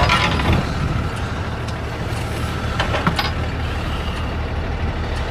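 Tow truck engine idling steadily, with a few short knocks and clanks over it.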